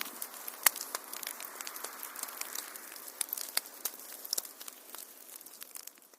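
Wood fire crackling and popping over a soft hiss, with a few louder cracks; it fades out near the end.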